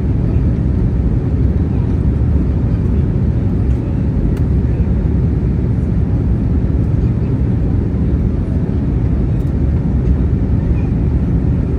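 Steady, even engine and airflow rumble heard inside the cabin of an Airbus A321neo with Pratt & Whitney PW1100G geared turbofans.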